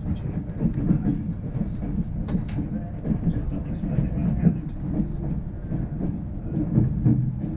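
Intercity 225 passenger coach rolling over the approach tracks into King's Cross, heard from inside: a steady low rumble with irregular wheel clicks and clacks over rail joints and points.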